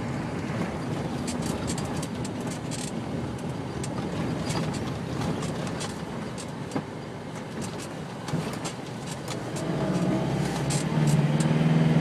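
Car driving on a rough dirt road: a steady rumble of tyres and engine with scattered clicks and knocks. The engine note grows louder near the end.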